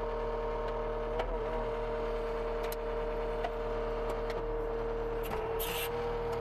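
CASE TR270B skid steer's engine running steadily, heard from inside the cab as a constant hum with a steady whine. The pitch wavers briefly about a second in, and a few faint clicks and a short hiss come near the end.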